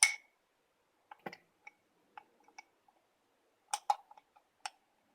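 A metal teaspoon clicking and clinking against a jar and cup as coconut oil is scooped out and added to the coffee: a sharp clink at the start, a few light taps, and a quick cluster of clicks near the end, some with a brief ring.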